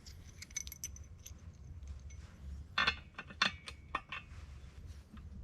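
Light metallic clinks and taps of a steel bolt being worked into the mounting holes of a vise on its stand, with a quick cluster of clicks about three seconds in, over a steady low hum.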